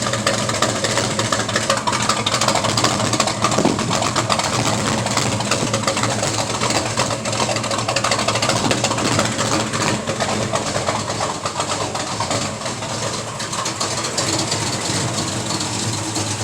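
Chevy 383 stroker small-block V8 (400 block with a 350 crankshaft) idling steadily after a cold start, its exhaust a fast, even pulse.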